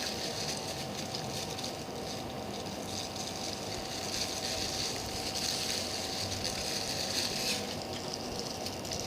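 Steady background noise, like rushing air or water, with a faint steady hum running under it.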